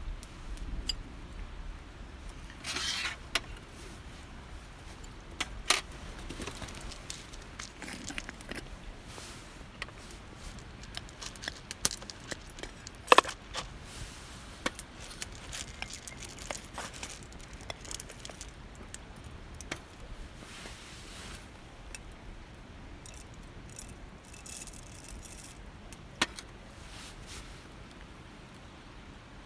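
Camp coffee gear being handled: scattered clicks and light metallic clinks, with a couple of sharper knocks about six and thirteen seconds in.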